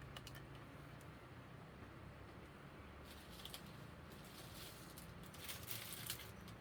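Faint light clicks and rustling, with two louder stretches of rustle about three seconds in and again around five and a half seconds, over a low steady hum.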